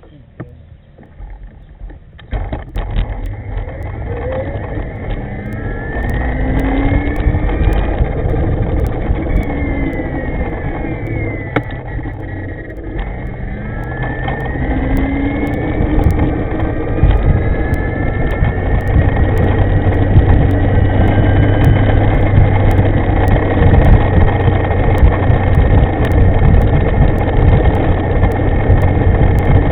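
Ride noise from an e-moving electric scooter with a V200 power system pulling away and travelling: heavy wind rumble on the microphone with the motor's whine gliding up in pitch several times as it speeds up. Near quiet at first, it grows loud about two seconds in.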